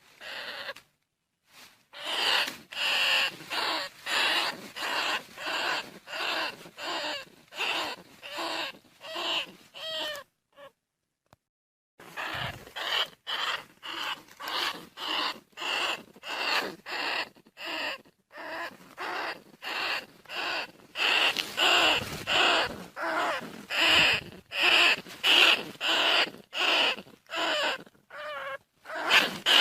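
Bandicoot rat calls repeated about twice a second, each call short and rough. They break off for about a second and a half near the middle, then start again.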